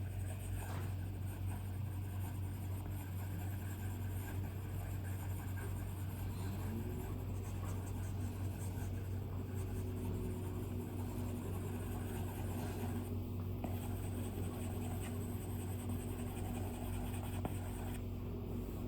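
Stylus strokes scratching and tapping on an iPad's glass screen while drawing, over a steady low hum.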